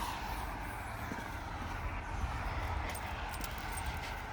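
Wind buffeting the microphone with a steady low rumble, while a passing vehicle's noise fades away over the first second or so. A few light ticks come in the second half.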